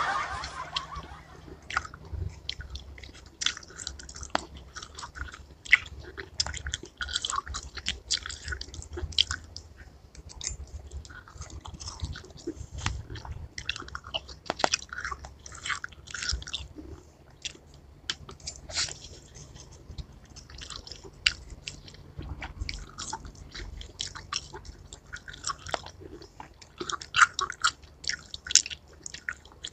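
Close-miked chewing and biting of fresh watermelon chunks: a steady run of short, crisp crunching clicks, louder and denser near the end.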